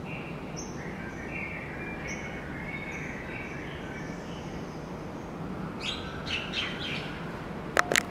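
Small birds chirping: short high calls repeat throughout and come thicker towards the end, over a steady low city hum. A couple of sharp clicks sound just before the end.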